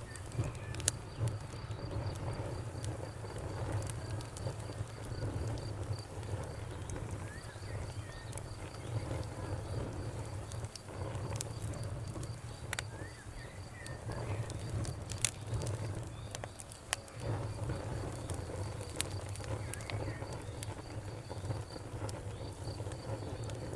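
Wood fire crackling, with scattered sharp pops and snaps over a low steady rumble, alongside crickets chirping in a fast, even, high-pitched pulse and a few faint bird chirps.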